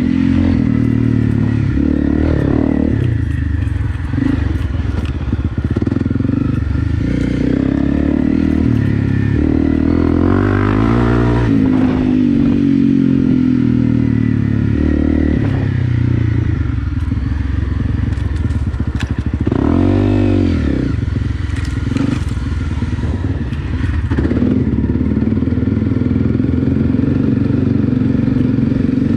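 Honda CRF250 Rally's single-cylinder four-stroke engine being ridden hard off-road, its pitch rising and falling with the throttle and gear changes, with sharp rev swings about a third of the way in and again about two thirds in.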